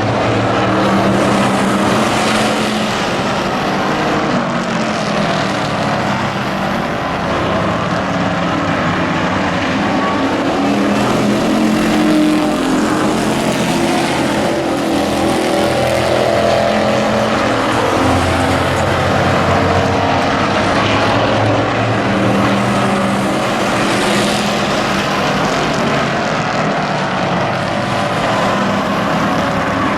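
Engines of several hobby-class race trucks running at speed on an oval track, their pitch rising and falling as they pass, with brighter surges every few seconds as trucks go by.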